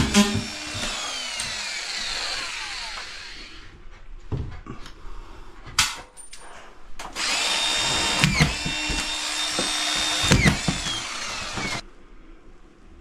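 Power drill running in two bursts. The first winds down with a falling whine, then come a few knocks, then a second steady run that stops suddenly near the end.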